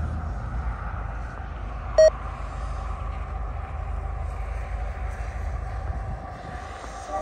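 Steady low rumble of a distant approaching diesel freight train, its GE ES44AC locomotives still far off. About two seconds in comes one brief, sharp, high beep.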